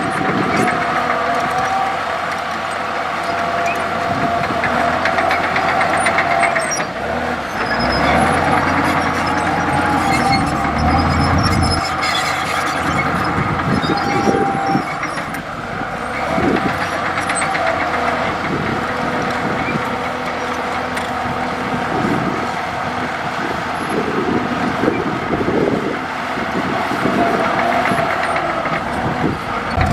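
Komatsu D65E bulldozer working: its diesel engine runs steadily with a high whine over it, the low rumble swelling under heavier load for several seconds about a third of the way in, with scattered knocks and clanks.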